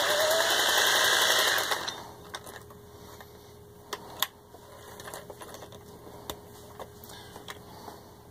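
Vintage Singer 403A sewing machine running fast, stitching a zigzag through fabric, then stopping a little under two seconds in. After it stops come a few scattered light clicks and knocks.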